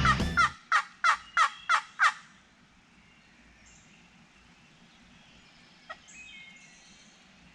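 Wild turkey calling: a quick run of about six loud notes, each sliding down in pitch, over the first two seconds. Faint songbirds and a single click follow.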